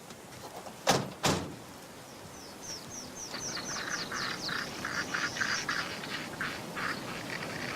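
Two sharp knocks about a second in, then birds calling outdoors: a rapid series of short, high, downward chirps with harsher lower notes beneath them.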